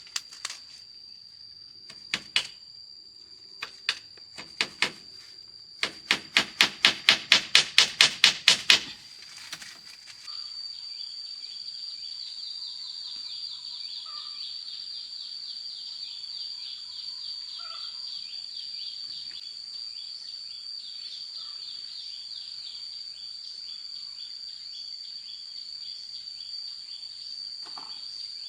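Scattered sharp knocks, then a fast run of about fifteen loud knocks at about five a second. After that insects start a steady high chirring that goes on.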